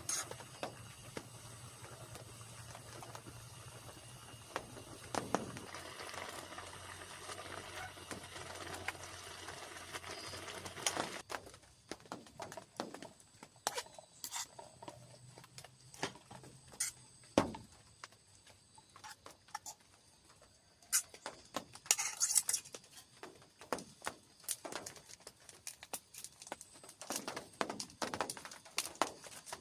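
A steady hiss with a low hum that cuts off after about eleven seconds, followed by scattered light clicks and taps, like objects being handled.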